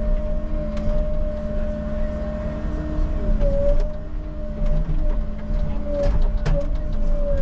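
Tracked skid loader running: a diesel engine rumble with a steady whine over it that sags briefly now and then, and scattered sharp clanks.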